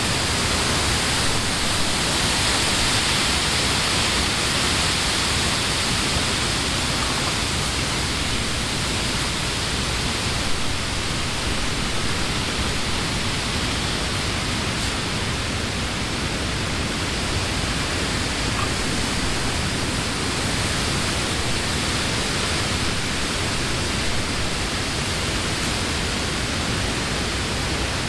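Steady wind rustling through the leaves of trees, a continuous even hiss that swells slightly in the first few seconds.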